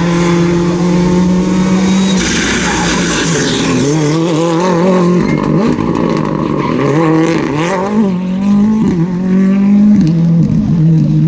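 Rally car engine running hard: a held, steady note at first, then the pitch rising and falling again and again through the middle, settling to a steady note near the end.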